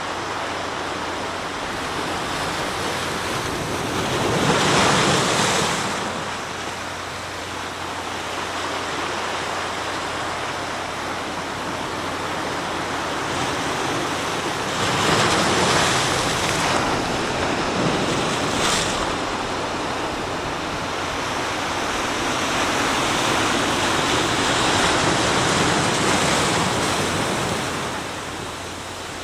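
Sea waves breaking on the shore over a steady wash of surf. Three waves swell up loudly and die away, about 5 seconds in, about 15 seconds in, and in a longer surge near the end.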